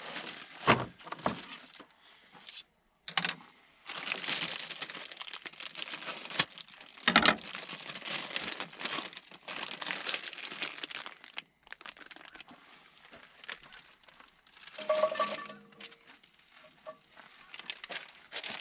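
Food sizzling and crackling in a pan of melted bacon fat on a camp stove, with a few knocks and clinks from handling the pan and utensils.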